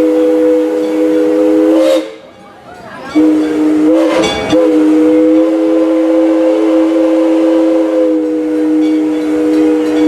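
Steam locomotive's chime whistle blowing a three-note chord in two long blasts: one cuts off about two seconds in, and the other starts about a second later and holds.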